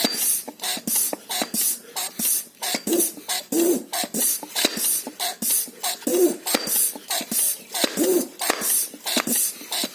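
High-pressure hand pump being worked in quick, repeated strokes, each with a sharp hiss of air, charging a steel air-gun tank. A man breathes hard and grunts with the effort every second or two.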